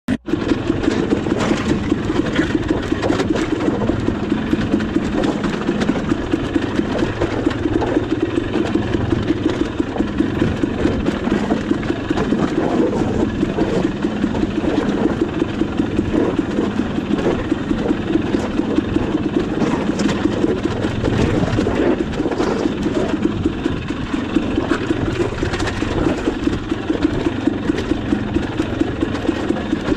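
Dirt bike engine chugging steadily at low revs as the bike crawls over rock, with scattered short knocks and clicks.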